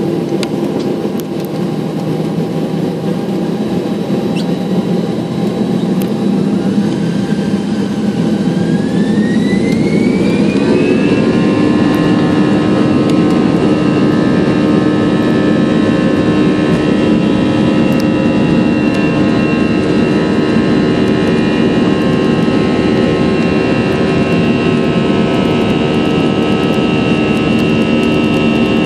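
Airbus A320's jet engines spooling up to takeoff thrust, heard inside the cabin. A whine climbs in pitch from about seven to eleven seconds in, then holds steady over a loud, even roar.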